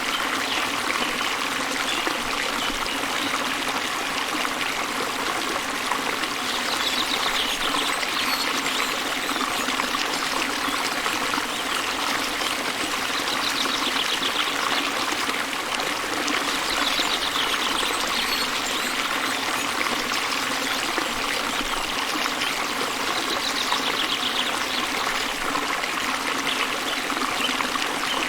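Waterfall with a steady rush of falling water. A small bird's short, high, rapid trill cuts through four times.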